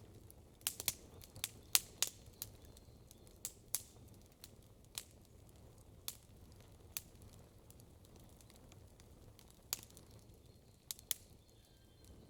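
Campfire crackling: irregular sharp pops and snaps, several in quick succession in the first two seconds, then sparser, over a faint low steady hiss.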